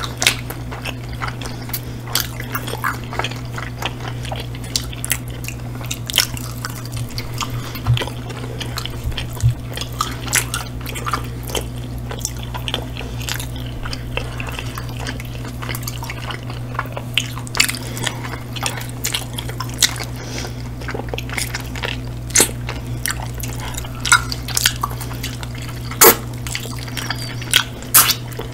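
Close-up chewing and wet mouth sounds of two people eating chicken wings: many short, sharp smacking clicks, one louder near the end, over a steady low hum.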